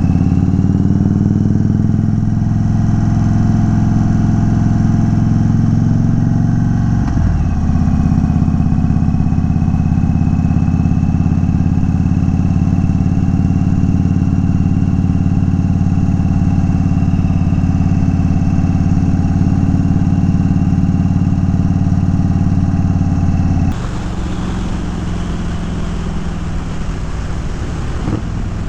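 2022 Indian Chief Dark Horse's Thunderstroke 116 V-twin running under way through unbaffled Dean Speed Rampage mufflers, with a steady engine note. The note breaks briefly about a quarter of the way in and then settles again. Near the end it suddenly drops to a quieter, rougher sound.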